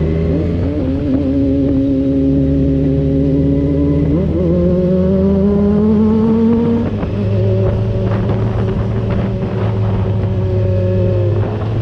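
Kawasaki Z1000R inline-four engine on its stock exhaust, under way and pulling through the gears. The pitch climbs, drops at quick upshifts just after the start and about four seconds in, and climbs again. Around seven seconds in it eases off to a steadier, lower note.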